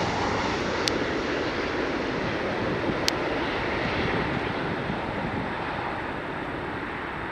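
Jet noise from a landing WestJet Boeing 737-800, a steady rushing sound that slowly fades as the airliner moves away. Two short sharp clicks are heard about one and three seconds in.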